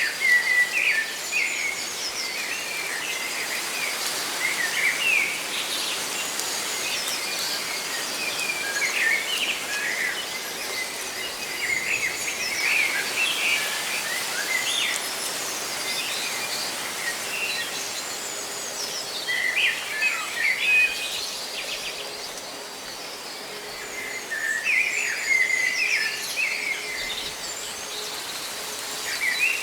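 Leaves rustling steadily in the wind, with birds chirping in short bouts every few seconds.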